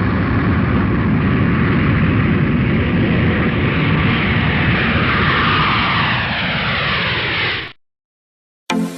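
Aircraft engine noise, loud and steady, with a sweeping change in pitch as it passes; it cuts off abruptly near the end.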